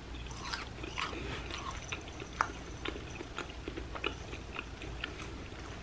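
Close-miked chewing of a deep-fried ham and cheese croquette crusted in crushed Cheetos: many small wet mouth clicks and crackles, with one sharper click about two and a half seconds in.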